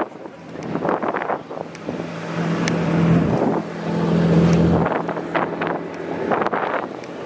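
A car engine running as a car pulls past, loudest in the middle and fading after about five seconds, with strong wind buffeting the microphone.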